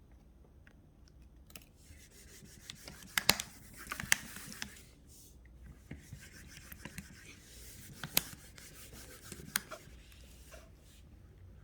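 Handling noise from a child's fingers rubbing and scratching over the recording phone, with sharp taps about three, four, eight and nine and a half seconds in.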